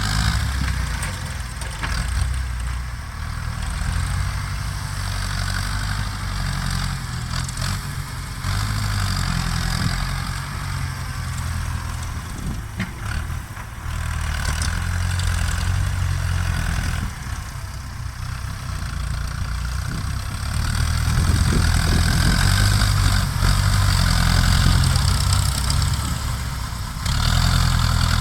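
Ford New Holland tractor diesel engines running steadily, the engine note rising and falling in loudness and getting louder about three quarters of the way through.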